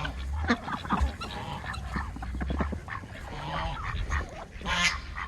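Backyard flock of geese, ducks and chickens calling at intervals, geese honking over the smaller birds, with one louder honk near the end.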